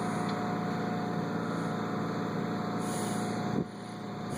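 Machinery running steadily: a low engine-like drone with a constant whine over it, dipping briefly about three and a half seconds in.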